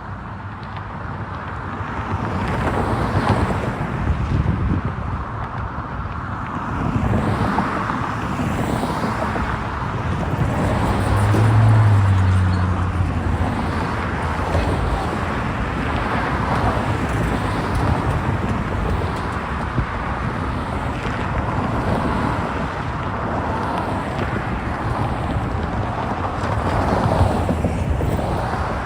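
Road traffic passing, with cars rising and falling in level and wind on the microphone.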